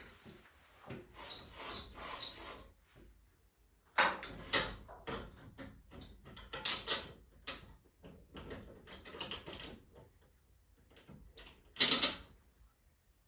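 Metal garage door spring hardware and tools being handled: irregular clicks, clinks and clatter, with a sharp knock about four seconds in and the loudest knock near the end.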